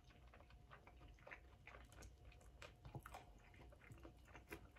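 Faint chewing: soft, irregular mouth clicks of a person eating.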